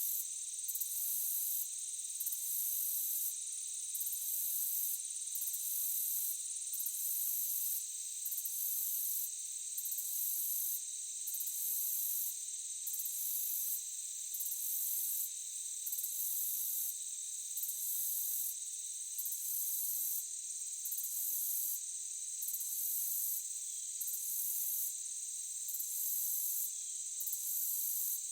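Forest insect chorus of crickets or cicadas: a steady high-pitched drone with a higher chirring layer that pulses on and off about once a second.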